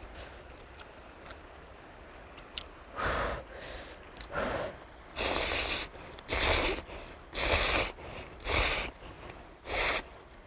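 A person slurping ramen noodles: seven loud slurps about a second apart, starting about three seconds in.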